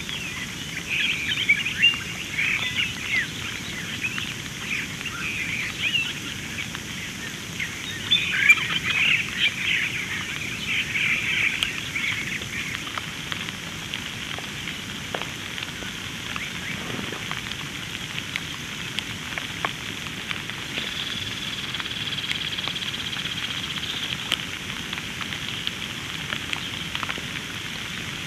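Rain falling, with many small drop ticks over a steady hiss, while birds chirp busily through the first half. A steady high-pitched note sounds for a few seconds in the second half.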